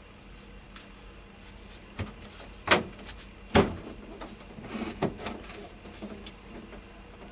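A series of knocks and clatters from objects being handled. Two loud knocks come less than a second apart about three seconds in, and a cluster of lighter clatters follows about two seconds later, over a faint steady hum.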